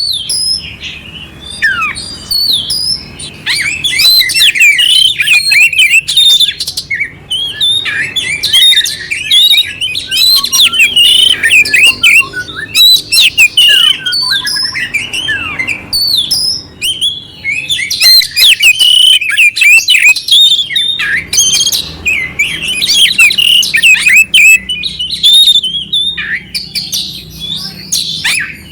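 Oriental magpie-robin (kacer) singing a rapid, unbroken run of varied high-pitched notes. Clear whistles and quick glides are mixed with harsh, rough phrases.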